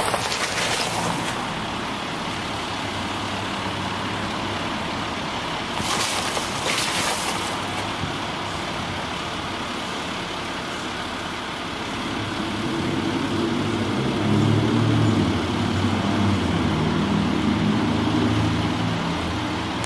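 A city work truck's engine running, with two short bursts of hiss about six and seven seconds in; the engine grows louder from about twelve seconds in.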